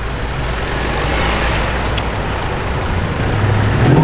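Car engine rumbling as a car rolls in, getting louder near the end as it comes closer.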